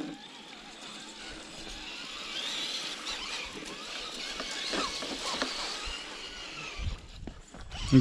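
Electric motor and geartrain of an RC scale rock crawler whining steadily as it crawls, with a low rumble and a sharp thump near the end.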